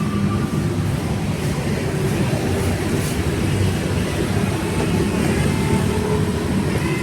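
City street traffic: a steady low rumble of engines and tyres from passing vehicles.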